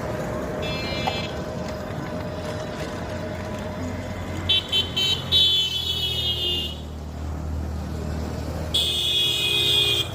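Road traffic: a steady low engine rumble with high-pitched vehicle horns honking three times, briefly about half a second in, for about two seconds a little before the middle, and again near the end.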